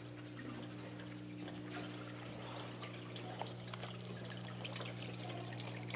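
Water trickling and dripping steadily from a turtle tank's filter, over a steady low hum.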